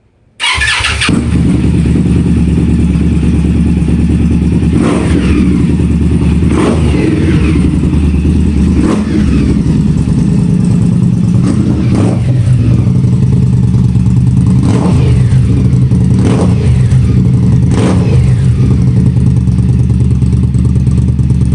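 A 2017 Indian Scout's V-twin engine, breathing through an aftermarket Freedom exhaust with 4-inch dual tips, starts up about half a second in and settles into a loud, steady idle. The throttle is blipped about seven times, each rev rising and then falling back to idle.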